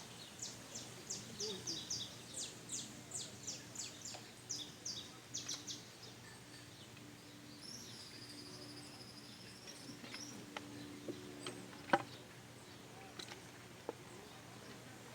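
A bird calling in a quick run of short, sharp, high notes for about five seconds, then a thin, high, wavering call lasting a couple of seconds. A single sharp click about twelve seconds in, with a few fainter clicks after.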